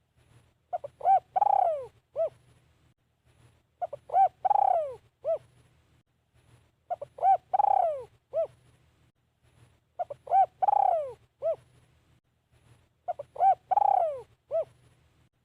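Spotted dove cooing one phrase over and over, about every three seconds. Each phrase is a few short coos, then a longer coo that falls in pitch, then a short closing coo.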